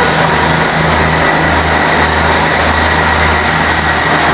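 A train's diesel engine running loudly close by, a steady low throb that swells and eases about once a second under a hiss.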